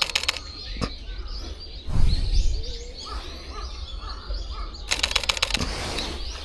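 Fujifilm X-H1 camera shutter firing in rapid bursts, about ten clicks a second, briefly at the start and again about five seconds in, over small birds chirping. A low rumble about two seconds in.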